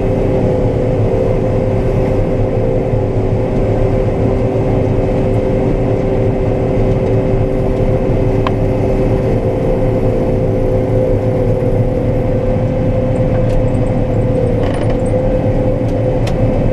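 Combine harvester running steadily while cutting soybeans: a constant low drone with a steady mid-pitched whine over it.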